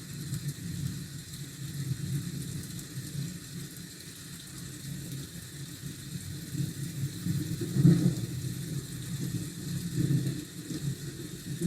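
Rainy city ambience: a low rumble of traffic under a faint hiss of rain. The rumble swells louder about eight seconds in, as a vehicle passes or thunder rolls.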